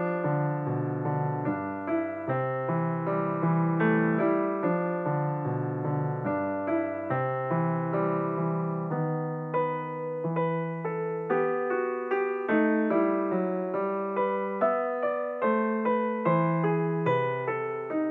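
Background piano music: a melody of struck notes that ring and fade, over held lower notes.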